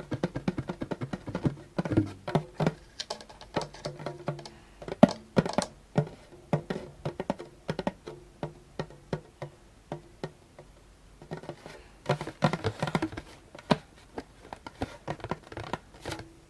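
Djembe tapped and struck with the fingers and hands: quick, irregular taps on the drumhead, some ringing with a short low drum tone, with a dense run of taps a little over two thirds of the way through.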